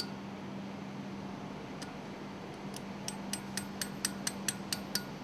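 A run of light, sharp clicks from hand tools working on the piston's locking flange, about four a second in the second half, over a steady low hum.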